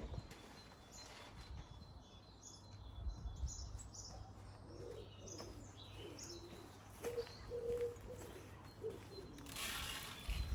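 Garden birds chirping in short, repeated high notes, with low cooing calls of a pigeon in the middle. A brief rustle comes near the end.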